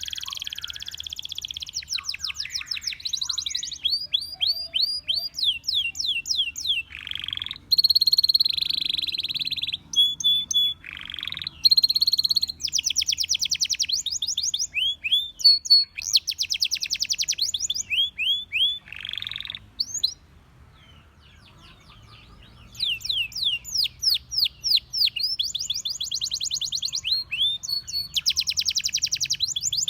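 Canary singing: fast trills of repeated high sweeping notes broken by dense buzzy rolls, with a pause of about two seconds about two-thirds of the way through.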